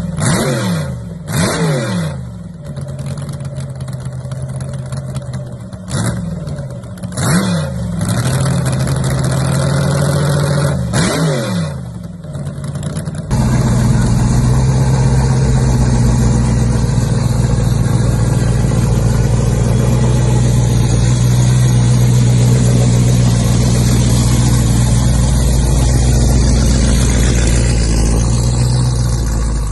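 A car engine is blipped about five times, its pitch jumping up and falling back after each rev. About 13 seconds in, a louder, steady engine run cuts in abruptly.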